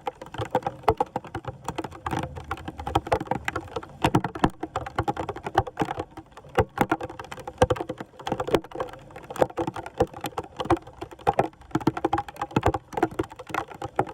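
Dense, irregular clattering and crackling of debris being raked and scraped off a clogged storm drain.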